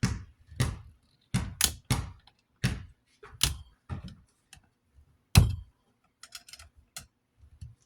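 Hard plastic parts of a box fan being handled and pried apart: a string of irregular clicks and knocks, with the sharpest knock about five and a half seconds in.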